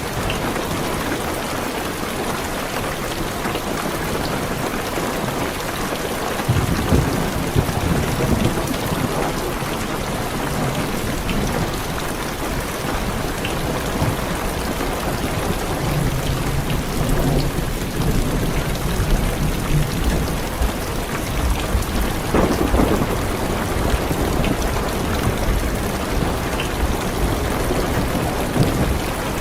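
Steady heavy rain on a car's windows and roof. About six seconds in, deep rolling thunder comes in and rumbles on, swelling again twice later.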